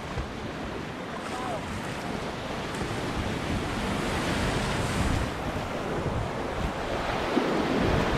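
Whitewater rapid rushing and splashing around a kayak, the water buffeting the microphone, growing louder toward the end.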